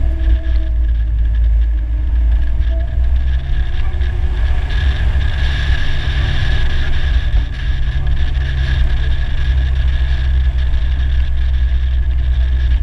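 Polaris Slingshot three-wheeler driving at a steady cruise, its engine running under a heavy low rumble of wind on the bonnet-mounted microphone.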